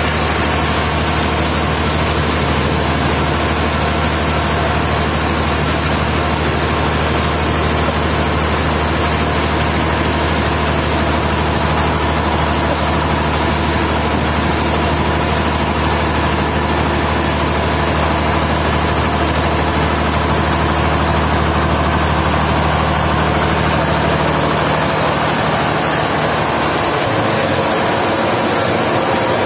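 Sawmill machinery running steadily: a constant low engine hum with a wide hiss of machine noise over it. Near the end the low hum fades and shifts in pitch.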